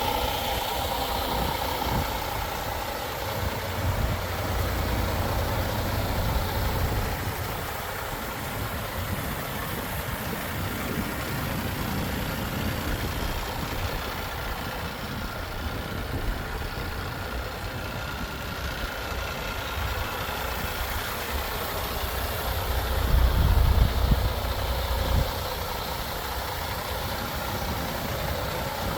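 MAN TGX 18.510 truck's 12.4-litre straight-six diesel idling steadily, with the low rumble swelling louder for a couple of seconds about three-quarters of the way through.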